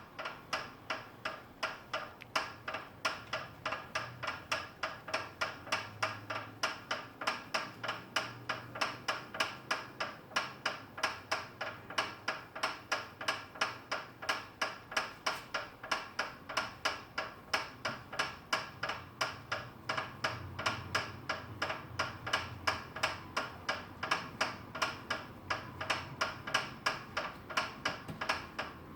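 FitDesk v2.0 desk exercise bike making a steady, repeated clicking, about three clicks a second: an unwanted fault noise that its owner finds very annoying.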